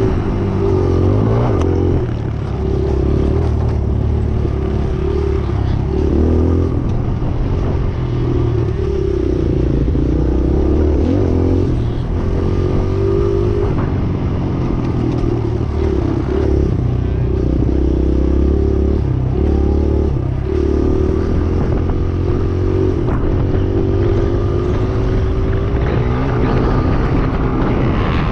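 Motocross dirt bike engine running hard, its pitch rising and falling again and again as the throttle is worked through the track.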